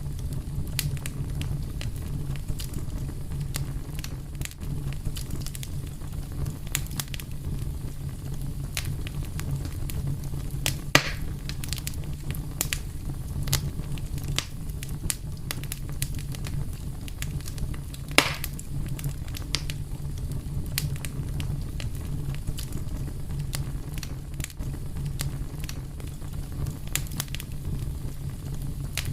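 Fire crackling steadily over a low rumble, with many small sharp pops and a few louder snaps, the loudest at about 11 and 18 seconds in.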